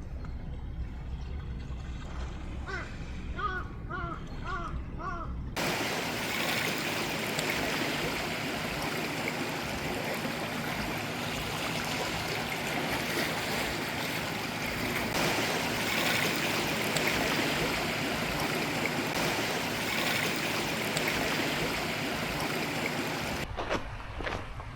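Sea waves washing onto the shore: a steady rush that swells and eases, starting abruptly about six seconds in. Before it there is a low hum with a short run of about five high calls.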